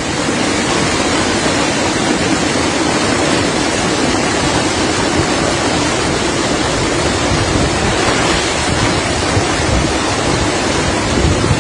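Torrent of floodwater running down a flooded street, fed by runoff from the mountain: a steady, loud rushing of water.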